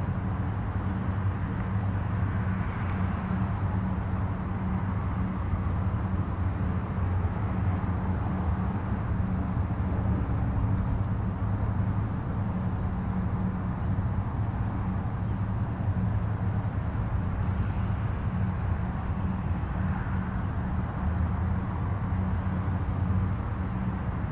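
Distant highway traffic: a steady low rumble of engines and tyres, swelling slightly twice, about 3 seconds in and again near 20 seconds, as vehicles pass closer.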